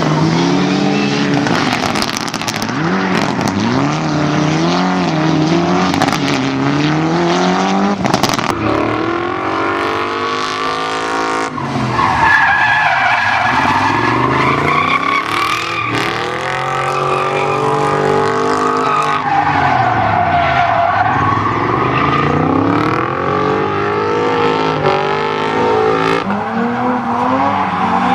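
A car driven hard: the engine revs up and drops back again and again through gear changes. The tyres squeal through long stretches of cornering or sliding, loudest in the middle and again a few seconds later.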